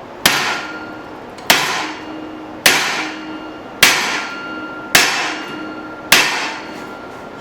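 Blacksmith's hand hammer striking a steel drift to drive it into the hot eye of a forged hammer head. Six sharp metallic blows about a second apart, each leaving a short ring.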